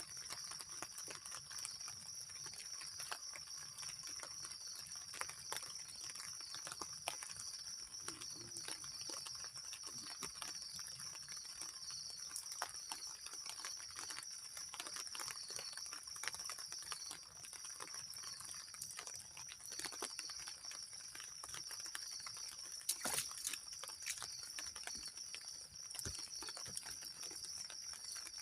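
A steady high-pitched insect chorus, with scattered small ticks and knocks throughout and one louder knock about 23 seconds in.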